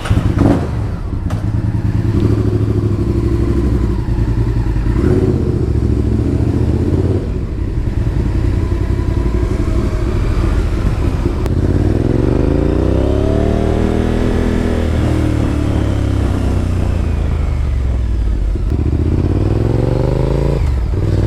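Honda VTR1000F Superhawk's 996 cc V-twin engine running on the move, a steady low rumble; the revs climb and fall again about halfway through, then climb once more near the end.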